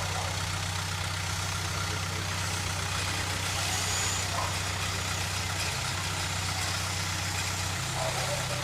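Heavy diesel engine of earth-moving machinery running steadily, its note shifting slightly twice in the last few seconds.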